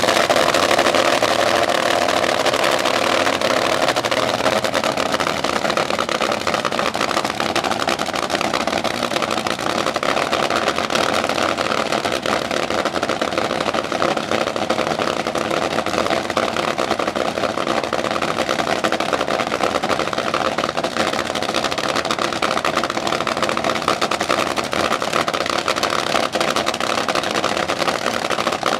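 Front-engine dragster's engine idling steadily, a constant loud rumble with no revving.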